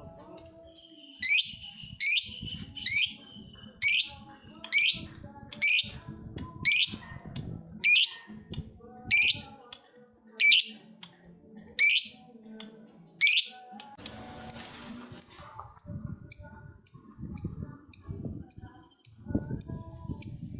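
Lovebird giving its long 'ngekek' chattering song: a string of loud, shrill notes about one a second, then, after a brief noisy patch about fourteen seconds in, a quicker run of shorter, fainter notes about two a second.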